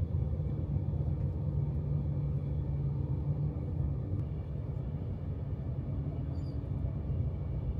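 Avanti West Coast Class 390 Pendolino electric train running at speed, heard from inside the carriage: a steady, low running rumble.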